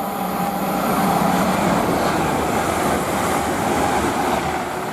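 Avanti West Coast Class 805 Evero five-car train passing at speed: a steady rush and rumble of wheels and air that builds over the first second or two and eases a little toward the end, with a low steady tone under it early on.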